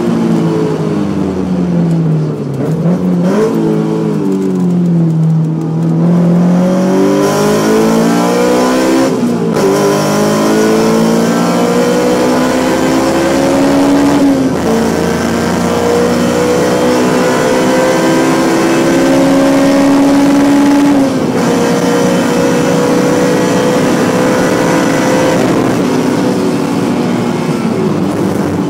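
Honda S2000's four-cylinder VTEC engine under hard driving: revs fall and rise in the first few seconds, then climb steadily twice with a sudden drop in pitch at each gear change, about 9, 14 and 21 seconds in.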